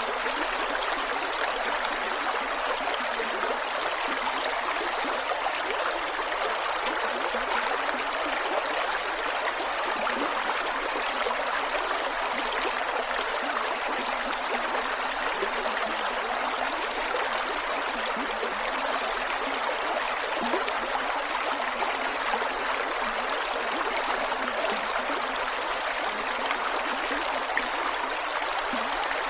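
Creek water flowing and gurgling over rocks, a steady even rush with no breaks.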